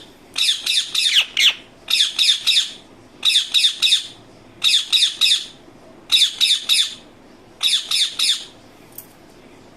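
Indian ringneck parakeet squawking: short bursts of three or four rapid, harsh, high-pitched calls, about one burst a second, stopping near the end.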